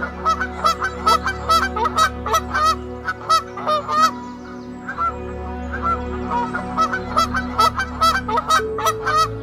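A flock of birds calling over and over, many short calls a second, over a steady low drone.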